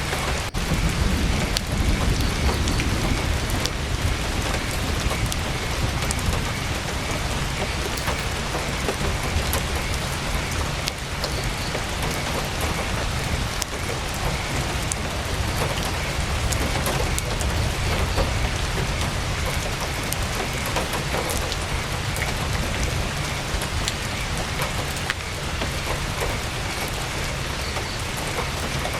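Heavy rain on tent fabric: a steady hiss with many scattered sharp taps of drops. A low rumble sits underneath, strongest in the first several seconds.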